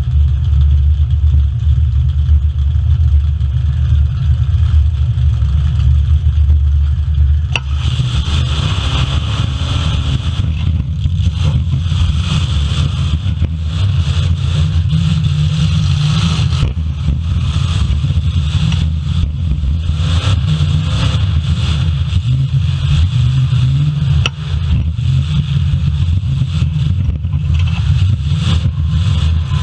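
Full-size demolition derby cars' engines: a loud low rumble for the first seven or eight seconds, then the engines revving up and down with metal clattering and a few sharp bangs.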